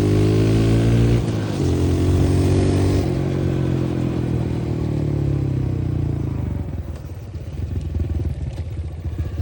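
Dirt bike engine heard from the rider's helmet. Its pitch climbs in the first second, dips sharply, then holds and slowly falls. For the last few seconds it eases off to a low, uneven off-throttle burble.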